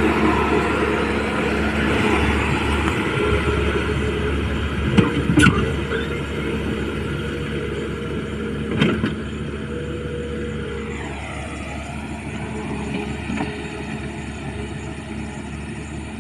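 A heavy machine's engine running steadily, with two sharp knocks, one about five seconds in and one near nine seconds. The engine's pitch drops a little around eleven seconds.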